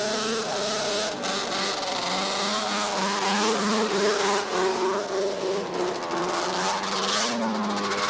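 Several racing snowmobiles' two-stroke engines running together, their pitches wavering up and down and overlapping.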